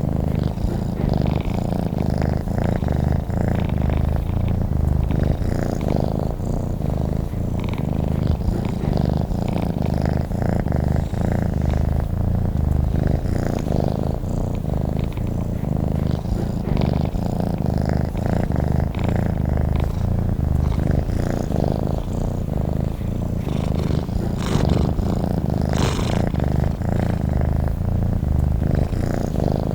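Domestic cat purring steadily at close range, a continuous low rumble that pulses rapidly and evenly.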